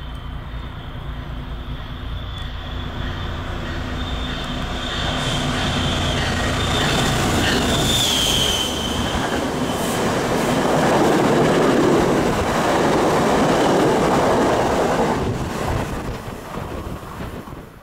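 MBTA commuter rail train passing through the station: a rumble and rush of wheels on rail that builds as it nears and is loudest as the coaches go by, then falls away sharply near the end. A thin high-pitched squeal sounds over the approach and stops about eight seconds in.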